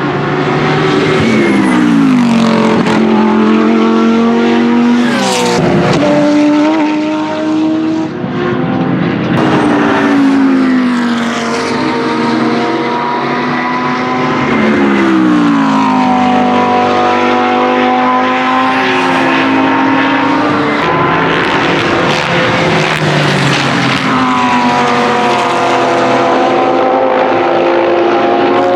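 Racing engines at high revs, led by the Lamborghini Huracán GT3 Evo's naturally aspirated V10, passing at speed. The engine pitch rises and falls throughout and drops sharply several times, with more than one engine overlapping at moments.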